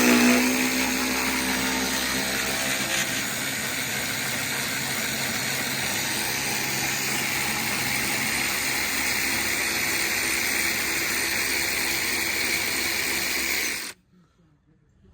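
A handheld drill-type power tool runs steadily after spinning up, then cuts off suddenly about fourteen seconds in. It is being used on the rear sway bar's fasteners.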